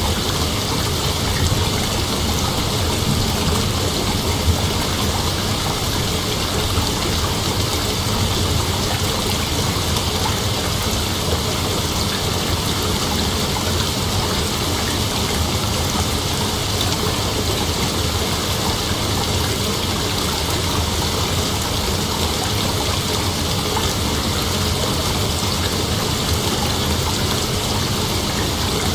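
Steady nature ambience: an even, continuous hiss with no changes or separate events.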